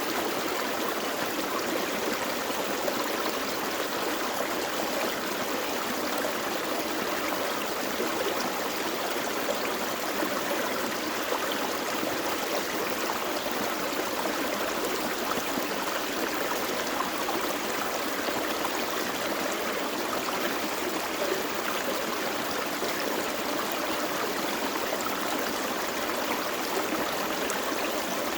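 Gentle forest creek flowing and burbling over rocks in a steady, unbroken rush of water.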